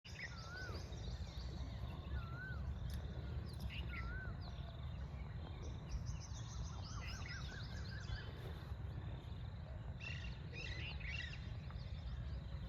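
Several birds chirping and calling together, with one short wavy whistle repeated three times in the first few seconds and bursts of fast chirps later on, over a steady low rumble.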